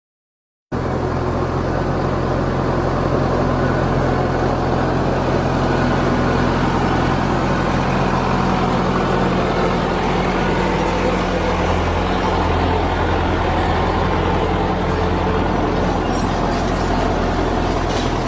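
A motor vehicle engine running steadily at an even speed, with a low, constant hum. It cuts in suddenly about a second in.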